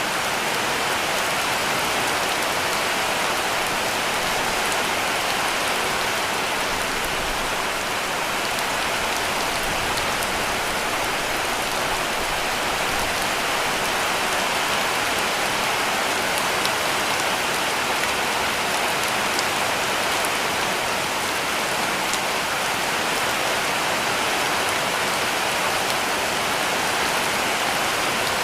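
Heavy rain falling steadily on a cabin roof, a dense even hiss with faint scattered drop ticks.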